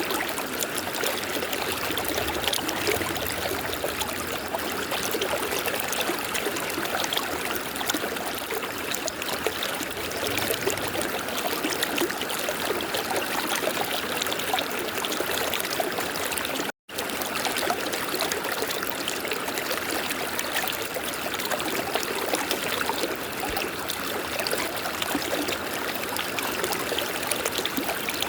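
River water flowing steadily, a continuous rushing and trickling, broken once by a split-second gap of silence about two-thirds of the way through.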